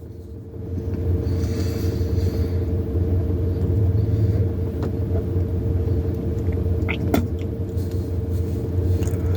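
Steady low rumble of an engine running, with a constant hum over it, starting about half a second in. A couple of brief clicks near the middle and later.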